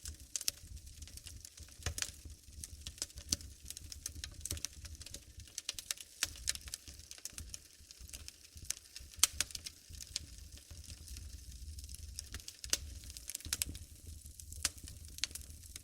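Wood fire burning in a fireplace, crackling with many irregular sharp pops, over a steady low rumble; the loudest pop comes a little past halfway.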